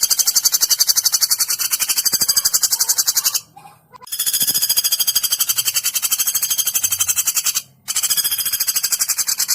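Woodpecker's rapid rattling trill: long high-pitched runs of fast, even pulses, broken by two short pauses, about three and a half seconds in and near the end.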